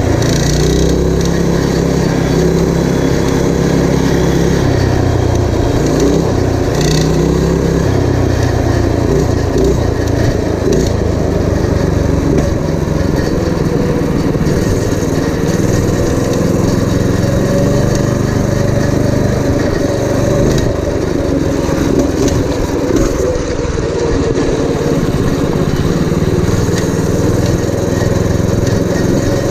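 Predator 212cc single-cylinder four-stroke engine on a minibike running under throttle, its pitch shifting up and down as engine speed changes.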